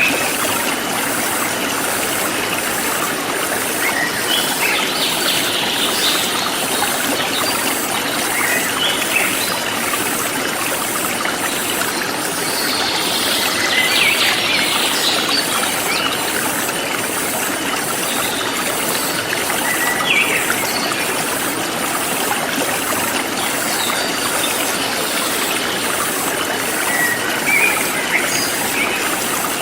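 Forest stream flowing steadily, with scattered short bird chirps and an evenly pulsing high-pitched insect call.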